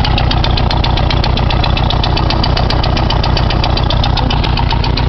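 1956 Farmall Cub's small four-cylinder flathead engine idling steadily with an even, rapid firing beat, still warming up after a cold start.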